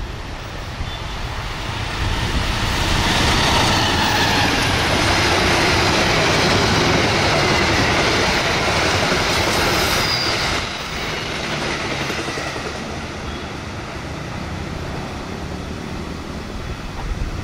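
Diesel-hauled passenger train passing close by at speed, the wheels running over the rails. The noise swells for about eight seconds as the locomotive and coaches go by, drops sharply about ten seconds in, and carries on more quietly as the train draws away.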